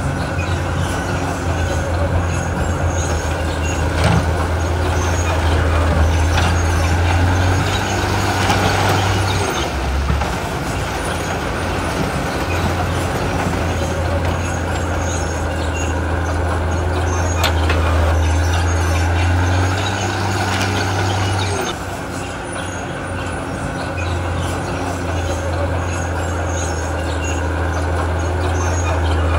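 Heavy diesel earthmoving machinery, a bulldozer and dump trucks, running under load with a steady low engine drone that dips briefly a couple of times, and a few sharp knocks.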